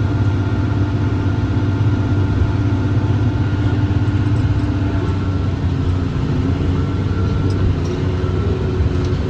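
John Deere 7410 tractor's diesel engine running steadily while pulling and powering a John Deere 468 round baler: an even low drone with a thin steady whine above it.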